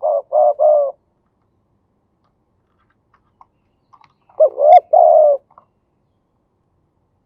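Male spotted dove cooing: three quick coos at the start, then after a pause of about three seconds a longer phrase of several coos.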